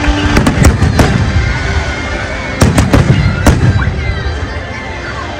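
Fireworks display: aerial shells bursting with sharp cracks, several in the first second and another cluster around three seconds in, over a continuous low rumble of distant bangs.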